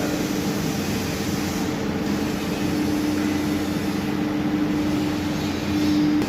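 Steady mechanical hum and noise from running machinery, with a steady low tone that grows a little louder near the end.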